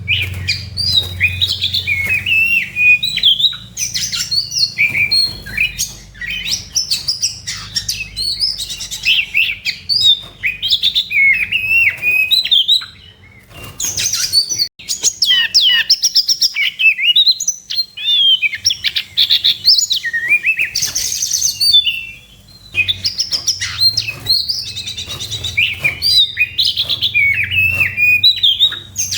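Oriental magpie-robin (kacer) singing a long, fast, varied song of whistles and chirps in aggressive fighting mode, with a couple of short pauses, over a steady low hum.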